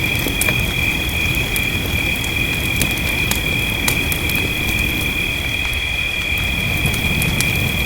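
Fireplace crackling, with scattered sharp pops, over a steady low rushing noise of rain. A constant high-pitched two-tone drone runs beneath.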